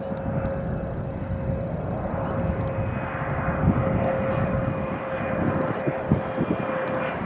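Airplane engines running with a steady whine over a broad rushing noise.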